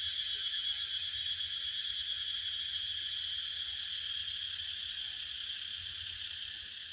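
Steady, fast-pulsing insect chorus, high-pitched and unbroken, slowly fading out near the end.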